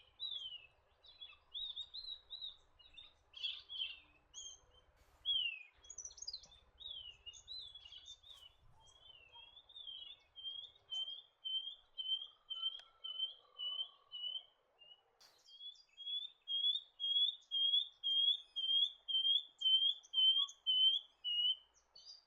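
Shining bronze-cuckoo calling: a long run of short, high whistled notes repeated about twice a second, growing louder in the second half. The run is preceded by a stretch of mixed, varied chirps.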